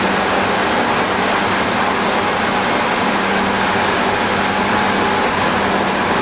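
Tokyu 8500 series electric train running at speed, heard from inside the car: a steady rolling noise of wheels on rail with a faint steady hum.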